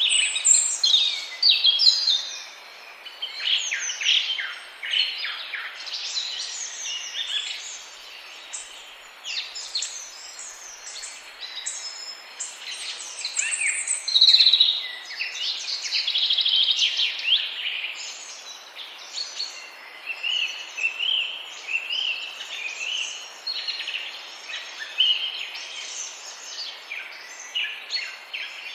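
Many birds calling at once, a dense chorus of short high chirps and quick sweeping notes overlapping one another, over a steady background hiss.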